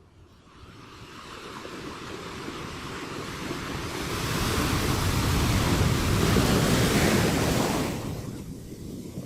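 Ocean surf breaking on a beach: the wash swells from quiet over about four seconds, stays loud for a few seconds, then dies down near the end.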